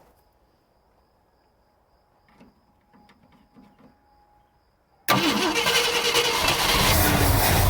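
Near quiet with a few faint clicks, then about five seconds in a car engine comes in suddenly loud and keeps running steadily.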